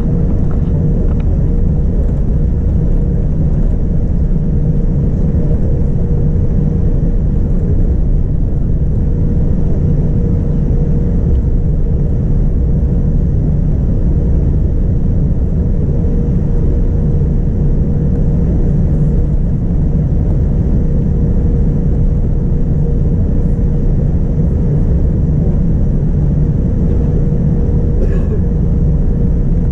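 Steady cabin noise of a Boeing 787-9 airliner: a constant low rumble of engines and airflow with a steady mid-pitched hum.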